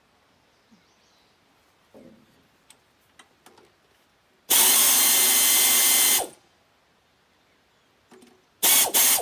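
A handheld power tool runs in one burst of nearly two seconds, then in two short bursts near the end, working a stuck bolt loose.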